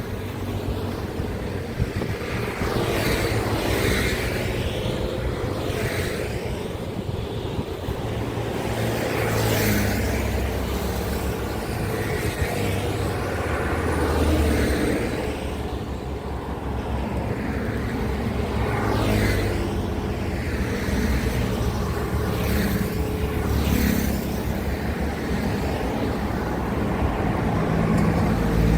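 Highway traffic with heavy trucks passing one after another: a steady low diesel engine drone, with tyre and engine noise swelling and fading as each vehicle goes by.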